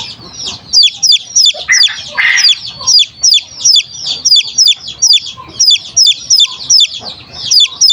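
Baby chick peeping: a steady run of short, high chirps, each falling sharply in pitch, about three a second.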